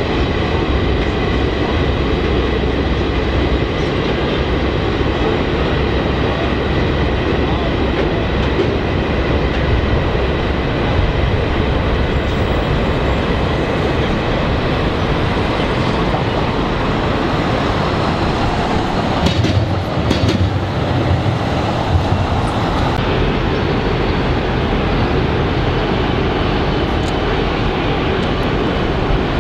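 Freight train's hopper wagons rolling across a rail viaduct: a steady rumble of wheels with clicking over the rail joints. A few sharp knocks come around two-thirds of the way in.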